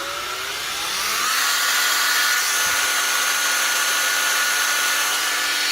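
Old 12-volt DeWalt cordless drill running on power from a cord with a cigarette-lighter plug in place of its dead batteries. Its motor spins up with a rising whine over the first second and a half, then runs steadily at full speed.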